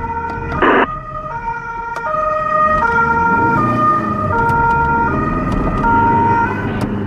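Italian police car's two-tone siren alternating between a high and a low pitch, each held for about three quarters of a second, over the car's engine and road rumble. A short hissing burst cuts in about half a second in.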